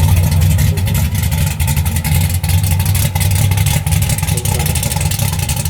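Car engine running with a steady low rumble and a rapid flutter.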